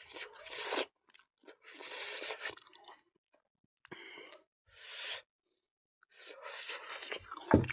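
A person chewing food close to the microphone, in about five separate bouts with short pauses between them, and a brief low thud near the end.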